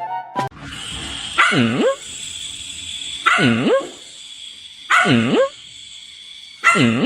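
A dog giving four drawn-out barks about every second and a half to two seconds, each dipping low in pitch and then rising, over a faint steady high-pitched whine.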